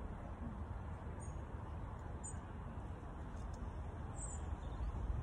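Outdoor background: a steady low rumble, with three short, faint, high bird chirps, about a second in, a little after two seconds, and just after four seconds.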